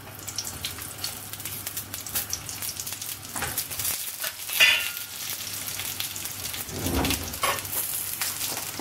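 Whole slit brinjals sizzling and crackling as they are laid one after another into hot sesame and coconut oil in a frying pan, with a few louder knocks as they go in.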